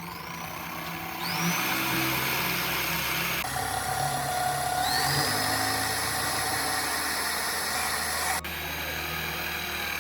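Electric power tool motor running, spinning up with a rising whine about a second in and again about halfway through, then dropping suddenly near the end.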